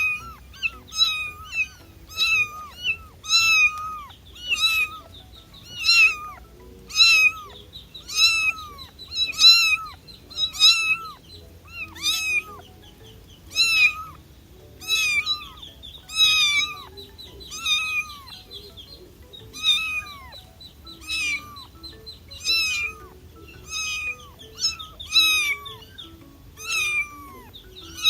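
Kitten meowing over and over, about one high, downward-falling meow a second.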